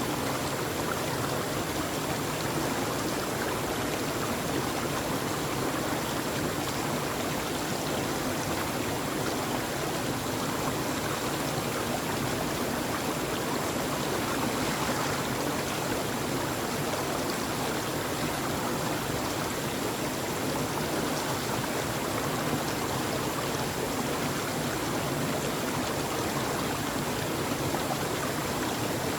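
Flowing stream water rushing steadily, an even, unbroken wash of sound.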